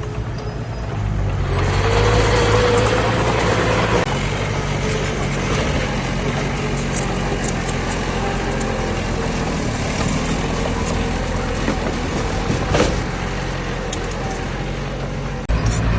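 Heavy diesel engine of earthmoving machinery running steadily, louder for a couple of seconds near the start. The sound changes abruptly about four seconds in and again near the end.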